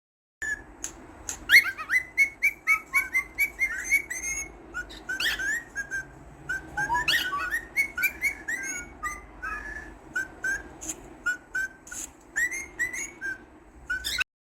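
Cockatiel chirping and whistling: a rapid, busy run of short rising and falling notes with sharp clicky chips, going on almost without pause.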